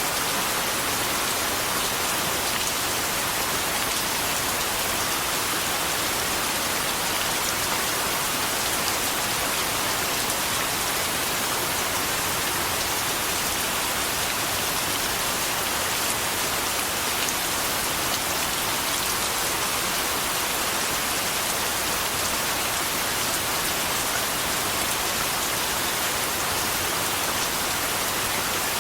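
Steady rain falling on a surface, an even hiss with the patter of many drops, unchanging throughout.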